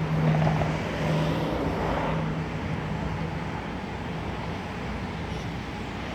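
Road traffic by a roadside fuel station: a vehicle's engine hum fades away over the first couple of seconds, over a steady wash of traffic noise.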